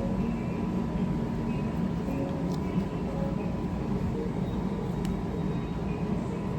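Steady low background noise with faint voices in it and a couple of light clicks about two and a half seconds in.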